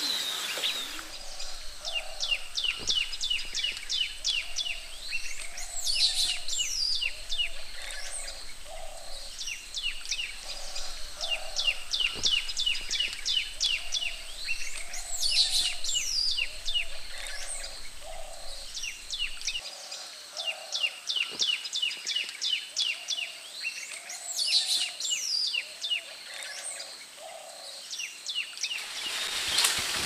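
Birdsong: phrases of rapid high chirps with lower notes between them, repeating every four to five seconds.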